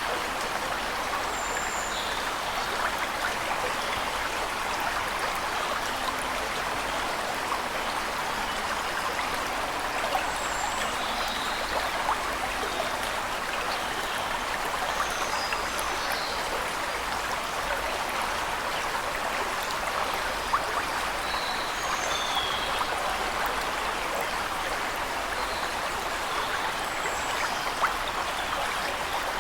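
Steady rushing of falling water, with short faint high bird chirps scattered through it.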